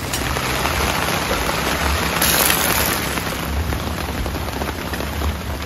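Heavy rain falling steadily as a dense hiss, swelling louder for about a second around two seconds in.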